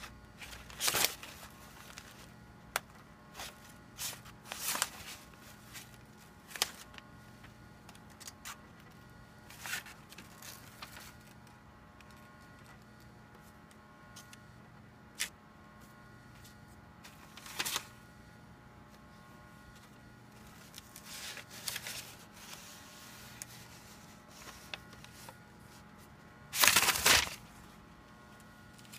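Paper rustling and crinkling in short, irregular bursts with a few sharp clicks, the longest and loudest burst near the end, over a faint steady hum.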